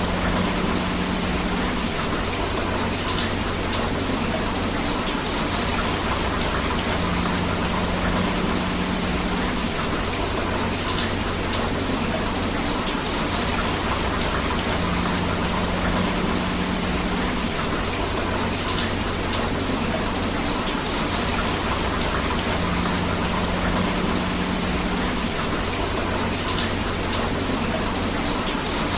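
Steady rain together with a flowing river: an even, unbroken hiss of water. A faint low hum rises and falls about every eight seconds underneath.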